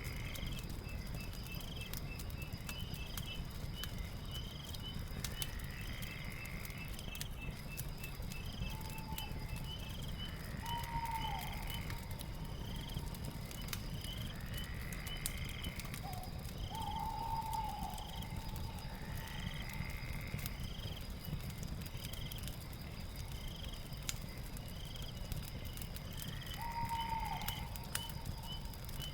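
Night ambience: insects trill steadily, and short chirps repeat, with calls sweeping upward every four to five seconds. Underneath, a fire crackles with faint scattered pops.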